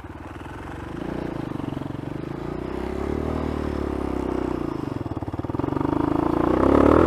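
Dirt bike engine running under throttle as the bike rides off, its pitch rising about a second in, dipping briefly, then revving up to its loudest near the end.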